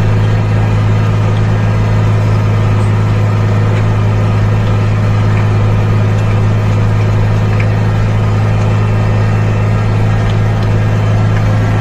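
Fendt 311 tractor engine running steadily under ploughing load, an even, constant hum with no change in pitch.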